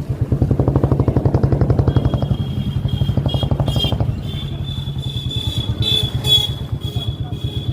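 Motorcycle engine running under way, its rapid even firing pulses louder for the first couple of seconds and then settling to a steadier beat. A thin high whine sits over it from about two seconds in.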